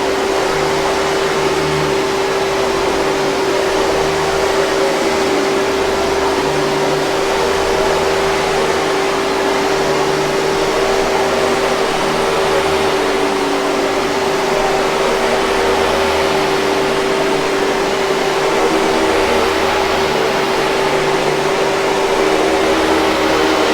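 Hoover 5000 Series canister vacuum cleaner running steadily: a constant rush of air with a steady hum-like tone over it.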